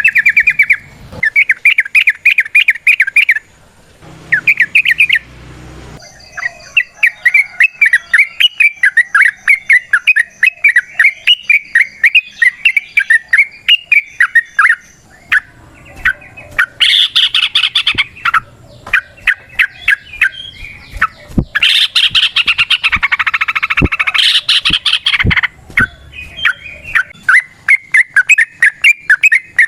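Yellow-vented bulbul (trucukan) singing its long, rapid 'ropel' song: runs of quick, bubbly repeated notes, several per second. The song grows louder and denser around the middle and in the latter half.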